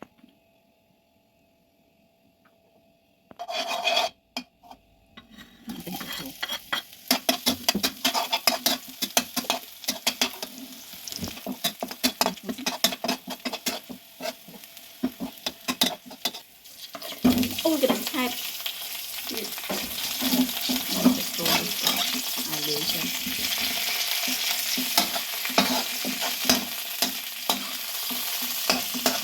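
Food being stir-fried in a pan: a spatula clicking and scraping against the pan over sizzling oil. The opening seconds are nearly silent, and about halfway through the sizzle jumps much louder and stays steady.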